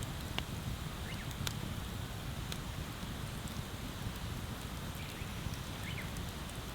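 Wood bonfire crackling, with scattered sharp pops over a steady low rushing noise.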